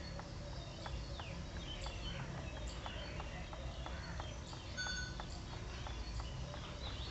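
Birds chirping and calling: many short chirps and quick falling whistles, scattered irregularly, over a low steady rumble.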